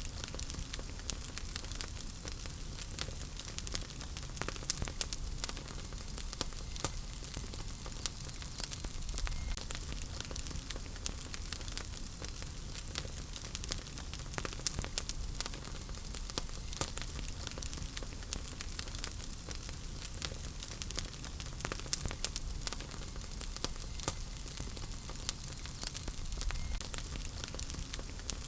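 Wood fire burning in a fireplace: a steady hiss and low rumble with frequent sharp crackles and pops throughout.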